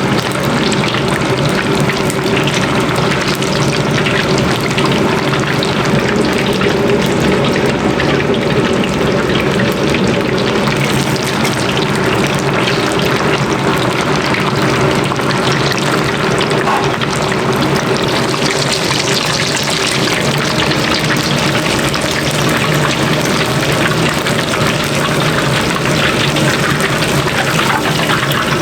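Food deep-frying in hot oil: a loud, steady sizzle with a faint low hum under it.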